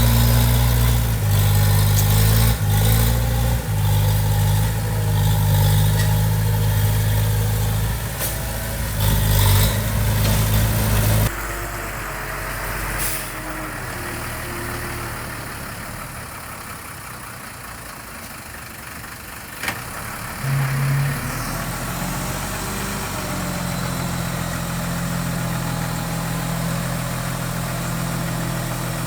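Heavy construction machine's diesel engine running steadily. Partway through the sound drops abruptly to a quieter engine idle, which grows louder again near the end.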